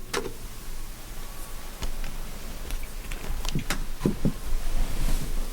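Camper furnace running with a steady low hum, with a few light clicks and knocks scattered through it.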